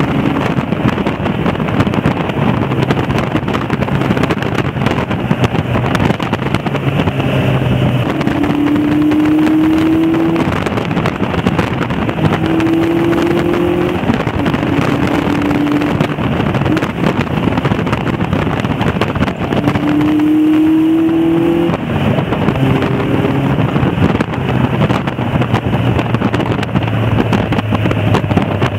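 Caterham Seven's engine driving on the road. Its note climbs and then drops back several times as it goes up through the gears, over a constant rush of wind and road noise in the open cockpit.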